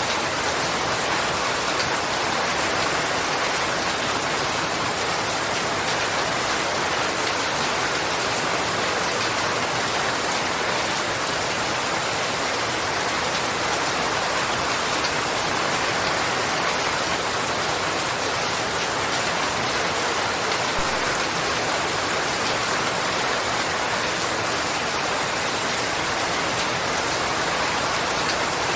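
Steady heavy rainfall, a dense even hiss of many drops on a surface.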